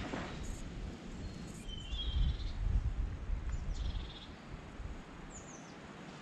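Woodland birds chirping a few short times over a steady outdoor hiss, with a low rumble on the camera microphone between about two and four seconds in.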